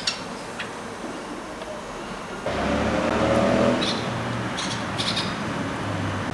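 A blackcap giving short, sharp call notes, a few near the start and a quick run of them about four to five seconds in. About two and a half seconds in, a nearby motor vehicle's engine comes in loud and keeps running underneath.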